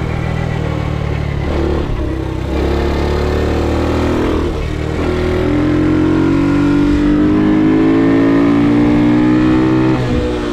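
Ohvale GP2 110 minimoto engine under load. The revs rise, fall back briefly about two seconds in and again around the middle, then climb steadily in pitch for several seconds before dropping off near the end.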